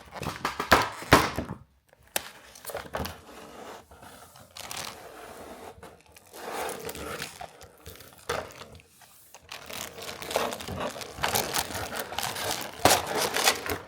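Plastic figure packaging crinkling and tearing in fits and starts as the figure is worked free of it, busiest near the end.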